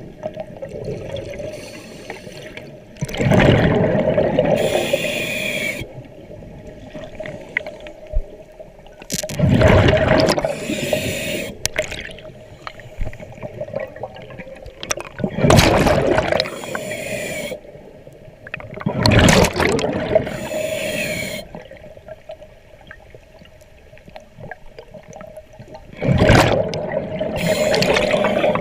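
Scuba diver breathing through a regulator underwater: a gurgling rush of exhaled bubbles about every six seconds, each lasting two to three seconds, with quieter inhalations between them. A steady faint tone runs underneath.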